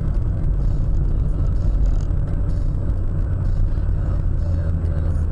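Steady low rumble of a moving car: engine and road noise, with no sharp impacts.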